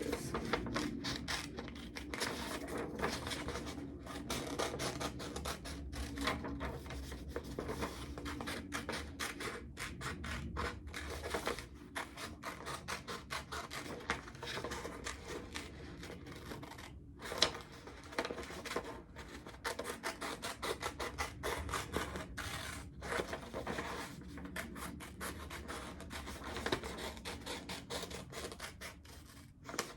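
Scissors cutting out a cloud shape from white paper, a steady run of short snips with the paper rustling as it is turned, pausing briefly now and then.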